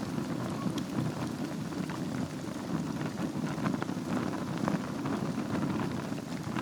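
Wood fire burning in a fireplace on a bed of embers: a steady low rumble of flames with many small, scattered crackles and pops.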